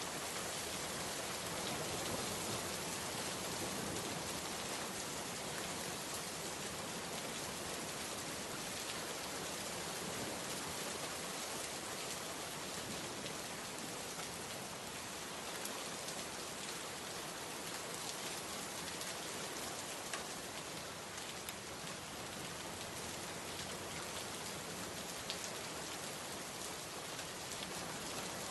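Heavy rain falling steadily, a dense even hiss with scattered drops pattering on a surface.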